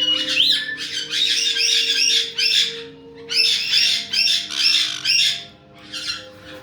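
Caique parrots squawking: two quick runs of sharp, high calls, about three or four a second, easing off near the end, over a faint steady hum.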